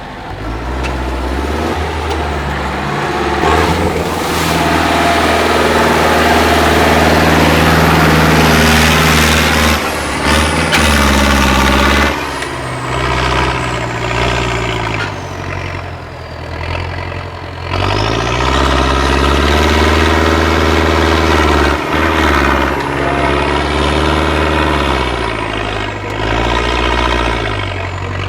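Heavy six-wheel-drive off-road truck's diesel engine working under load, its revs climbing and dropping back several times. A few short sharp noises come in the middle.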